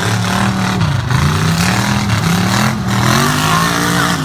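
Race truck engines revving and easing off, their pitch rising and falling several times.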